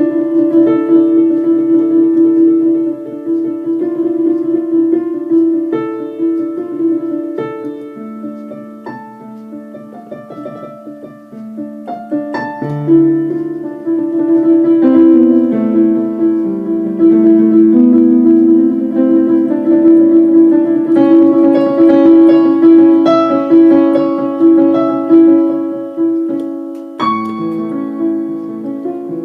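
Solo piano playing a slow piece of sustained chords under a melody. It grows softer in the middle and swells again from about thirteen seconds in, with a new chord struck near the end.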